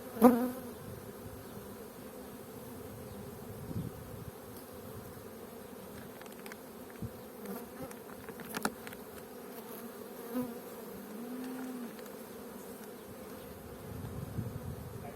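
Honeybees buzzing steadily in a mass around an open hive. A sharp knock comes just after the start and is the loudest sound, with another click a little past the middle.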